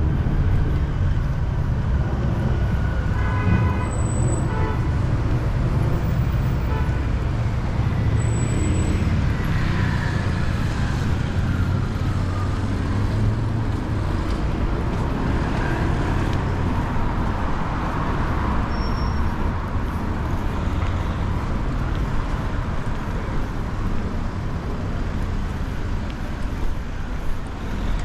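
Road traffic on a busy street: motor vehicles running past with a steady low rumble and tyre noise. A short pitched tone sounds about three seconds in, and a tone slowly falls in pitch around ten seconds in as a vehicle goes by.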